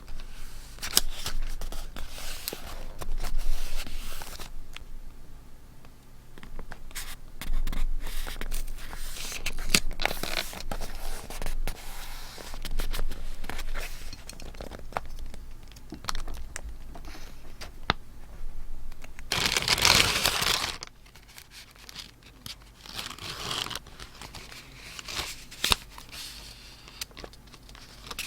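Close-up paper handling during scrapbook journaling: rustling, light scraping and small clicks of paper, with one louder tearing sound lasting about a second and a half a little past two-thirds of the way through.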